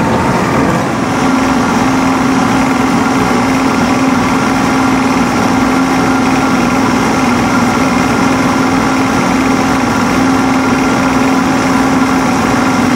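A small engine running steadily at idle, with a constant hum.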